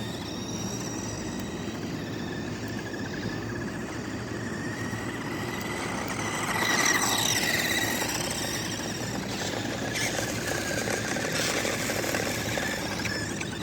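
Toy RC car's small electric motor and gearbox whining steadily, getting louder with a gliding pitch about seven seconds in.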